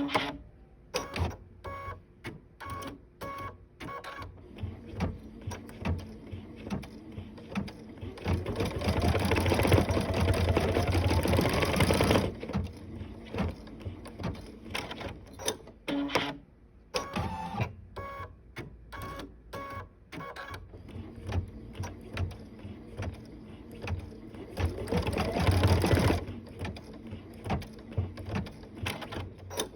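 Sewing machine stitching in two bursts, a longer one and a shorter one near the end, its pitch rising as it speeds up, with scattered clicks and knocks from the machine between the runs.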